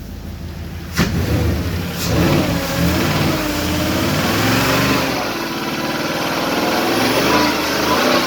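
2005 Porsche Cayenne engine at 134,000 miles on a run test, idling and then revved up and down several times, the pitch rising and falling. Two sharp clicks come about a second apart as the revving begins.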